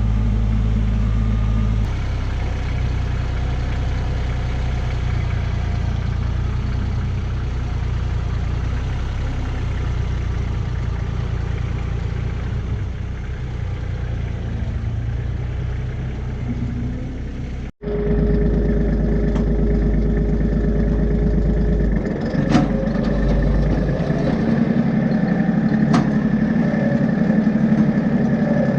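Kubota tractor engine running steadily. About two-thirds of the way through the sound cuts off for an instant and comes back with a different engine note carrying a steady whine, with a couple of sharp knocks after it.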